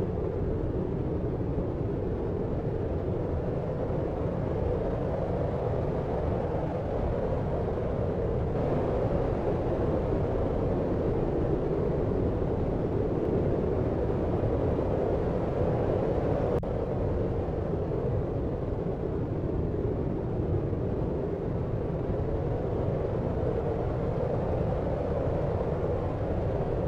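Deep white noise: a steady low rush, heaviest in the low and lower-middle range, with no distinct events.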